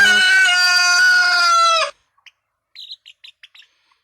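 A young cockerel giving one long, steady crow that cuts off about two seconds in, followed by a few faint, short chick peeps.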